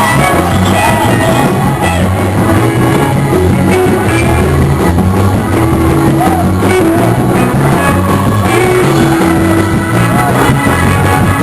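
Loud gospel praise-break music from a church band, with voices singing over it.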